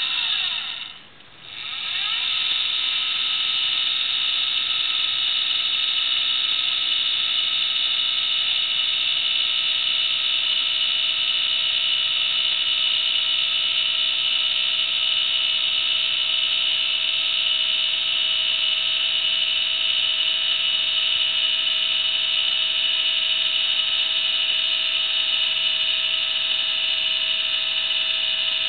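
Celestron CG-5 equatorial mount's motor drive slewing at speed 8: a steady high-pitched motor-and-gear whine. It cuts out briefly about a second in, then spins back up with a rising pitch and runs on evenly. At this rate the mount runs without the fault that appears at rate 9.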